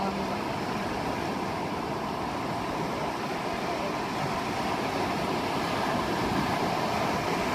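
Steady wind rushing over a phone's microphone, mixed with breaking surf, as a continuous even noise with no clear events.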